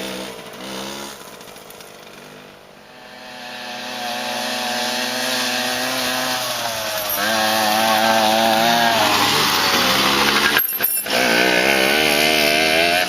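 Two-stroke dirt bike engines running on the track, revving up and down. They are faint at first, then grow louder as the bikes come closer. There is a brief break about three-quarters of the way through.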